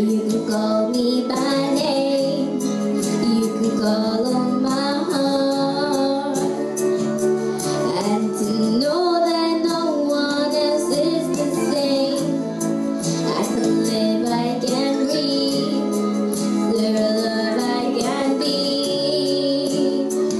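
A song with female and child voices singing over instrumental accompaniment.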